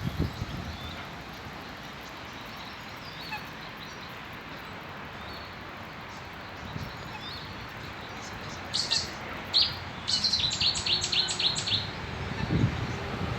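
Small birds chirping: faint scattered chirps, then about nine seconds in a burst of loud, high chirps in a quick run lasting a couple of seconds. A few low thumps near the start and near the end.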